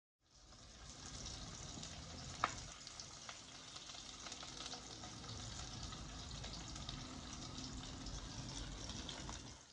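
Gambas frying in a pan over an oak wood fire: a steady sizzle with scattered small crackles and one sharp pop about two and a half seconds in.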